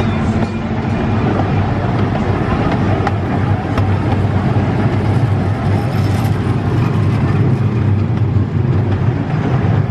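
Casey Jr. Circus Train rolling along its track, heard from a passenger car: a steady low rumble of the wheels and cars.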